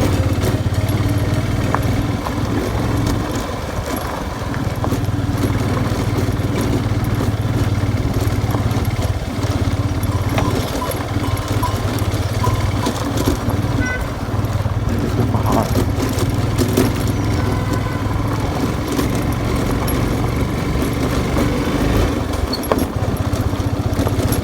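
Motorcycle engine running steadily under way, a constant low hum with broad road noise over it.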